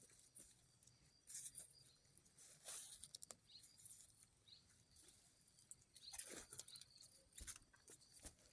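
Faint, irregular rustling and scraping with scattered light clicks, a few louder rustles about a second, three seconds and six seconds in.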